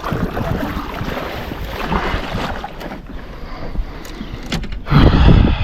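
Water sloshing and splashing steadily, with a few sharp knocks and a louder splash about five seconds in.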